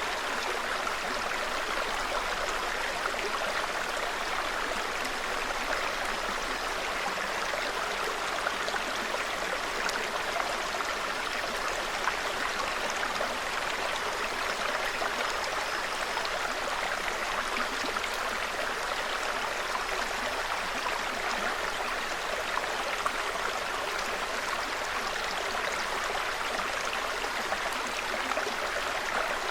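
Small mountain stream babbling, a steady, even rush of running water without breaks.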